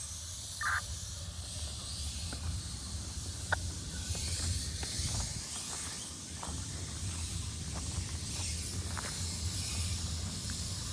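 Steam hissing from live-steam locomotive 928 as it moves off, over a low rumble, with scattered light clicks and knocks.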